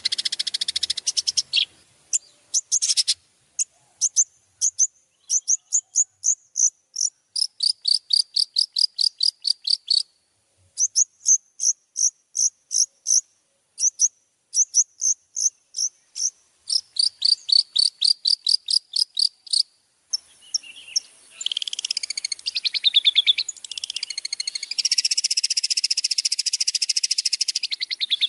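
Recorded songbird song: trains of rapid, evenly repeated high, sharp notes, each train lasting a second or two with short pauses between. About two-thirds of the way through it changes to a denser, more varied, continuous high chatter.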